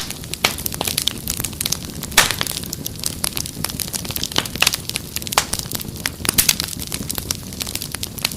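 Wood fire crackling, with frequent sharp pops and snaps at uneven intervals over a steady low rumble of burning.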